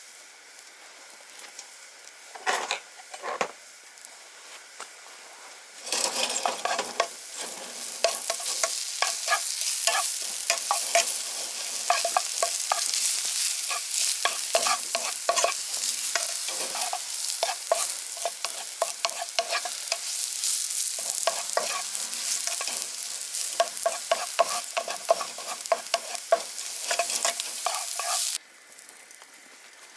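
Food sizzling and frying in a pan while being stirred, with many quick clicks and scrapes of the utensil. Two short scrapes come a few seconds in, then the sizzle starts about six seconds in and cuts off suddenly near the end.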